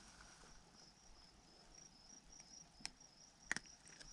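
Crickets chirping faintly, a short high chirp repeated at an even pace, with a few sharp clicks near the end.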